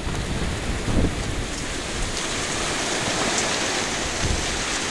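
Steady heavy rain falling in a gusting wind, with the wind buffeting the microphone in low rumbles about a second in and again near the end.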